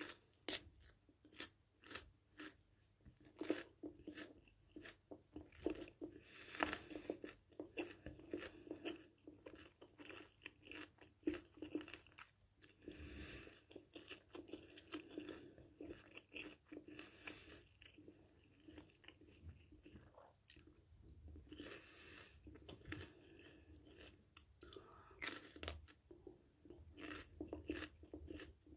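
A person biting and chewing raw red bell pepper, with irregular crisp crunches throughout.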